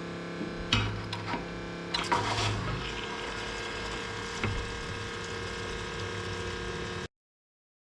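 A motor runs steadily, with a few sharp metallic clanks and knocks about a second in, again around two to three seconds in, and once more near four and a half seconds. The sound cuts off suddenly about seven seconds in.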